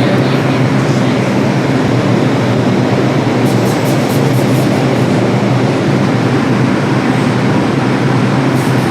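R142 subway train running, a loud steady rumble of wheels and motors, with a short run of sharp clicks about halfway through.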